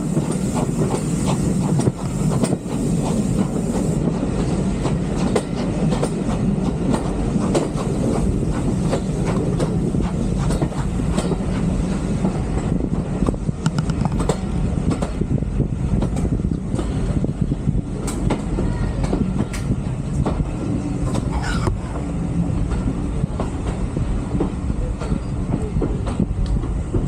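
Steam-hauled heritage train carriages running along the track: a steady low rumble, with the wheels clicking over the rail joints.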